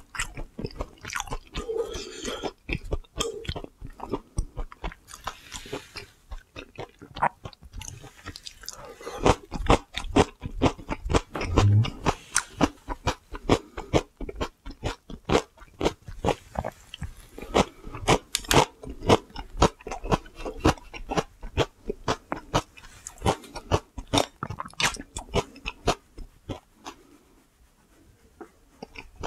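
Close-up chewing and crunching of crisp pan-fried oyster and chive pancakes and pickled radish, many sharp crunches in quick succession, dying away near the end.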